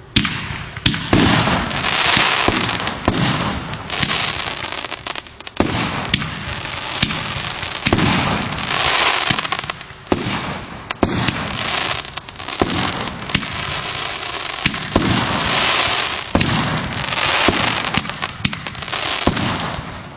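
20-shot, 50-calibre fireworks cake (SU 02002 "Svadebnaya") firing its shots in quick succession, about one a second. Each shot is a low thump of the launch followed by a hissing, crackling burst.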